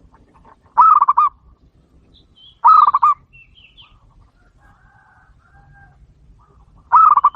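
Aviary doves cooing: three short, loud, rolling coos with a quick wavering pitch, about two seconds apart and then after a longer gap, with faint chirps from smaller birds between them.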